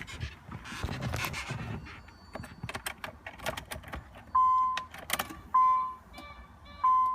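Rustling and light clicks of keys at the ignition of a 1993 Nissan 300ZX. About four seconds in, the car's electronic warning chime starts, a single-pitched ding repeating about every second and a quarter, with a sharp click after the first ding.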